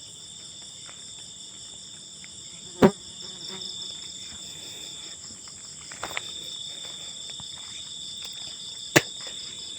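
Night chorus of crickets and other insects trilling steadily in several high pitches. Two sharp knocks cut through it, about three seconds in and again near the end.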